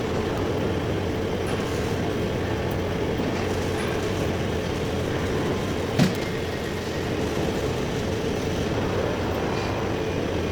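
Heavy-duty lathe running in a workshop: a steady mechanical drone with a constant hum. A single sharp clank about six seconds in, with a few faint ticks.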